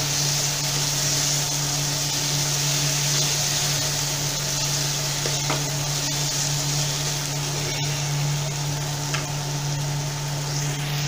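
Onion and tomato-puree masala sizzling in a non-stick frying pan while a steel spoon stirs it, with a few light ticks of the spoon against the pan. A steady low hum runs underneath.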